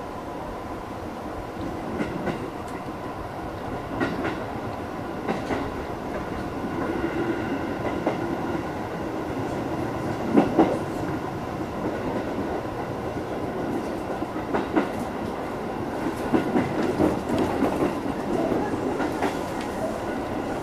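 Electric commuter train running and gradually picking up speed, heard from inside behind the driver's cab. There is a steady rumble under faint humming tones, with wheels clacking over rail joints and points every few seconds; the loudest clack comes about halfway through.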